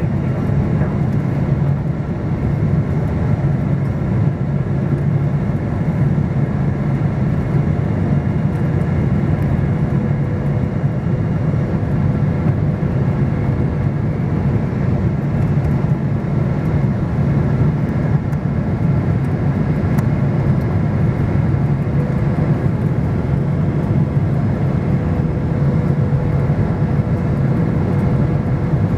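Steady roar of a jet airliner's engines and airflow heard inside the passenger cabin during the approach to landing, with a faint steady hum from the engines.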